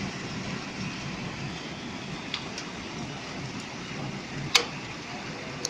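Hailstorm: a steady roar of rain and hail, with four sharp knocks of hailstones striking a hard surface, the loudest a little over halfway through.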